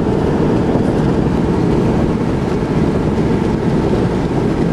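Steady road and engine noise inside a moving car's cabin, an even rumble with no breaks.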